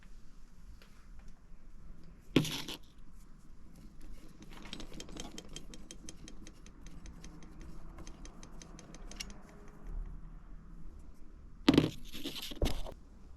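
Hand-tool work on metal: a sharp knock, then a quick, even run of ticks lasting about five seconds, then two more knocks near the end.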